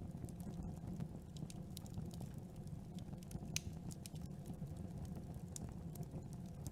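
Campfire burning: a steady low rumble of the flames with irregular sharp crackles and pops from the burning wood, one louder pop about three and a half seconds in.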